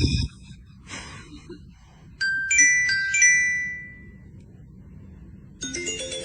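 A few clear ringtone-like chiming notes, each held and fading, after two short noisy bursts. Music with many notes starts near the end.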